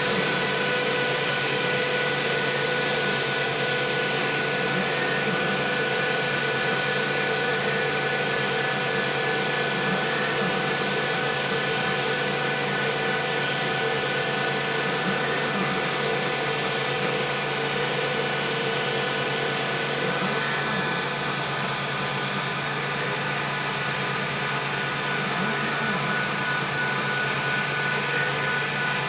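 CNC vertical machining centre running: a steady mechanical whine, several held tones over a constant hiss, with no breaks.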